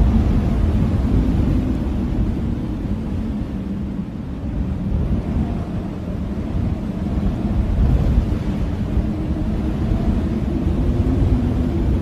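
Blizzard wind blowing steadily, a deep rumbling rush with a faint moaning howl that swells and eases slowly.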